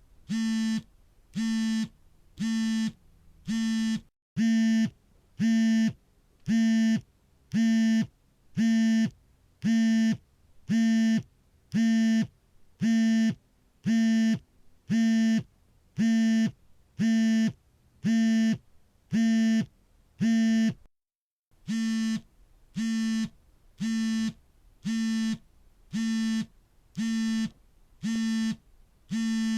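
Smartphone vibrating for an incoming call: its vibration motor buzzes in short pulses of about half a second, roughly one a second, in a steady on-off pattern. The rhythm breaks twice with a brief moment of silence.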